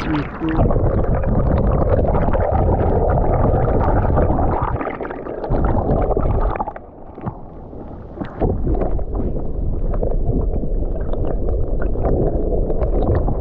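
Stream water gurgling and rumbling, heard through a camera microphone dipped underwater: a loud, muffled, continuous wash with the high end cut off, which drops briefly about five seconds in and again around seven seconds.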